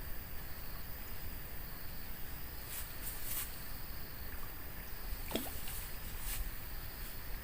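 Steady outdoor riverbank background: a low rumble under a thin, steady high hum, with a few faint clicks and one short falling whistle a little past halfway.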